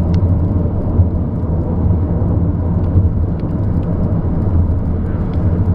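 Steady low rumble of a car on the move, road and engine noise, with a few faint light ticks.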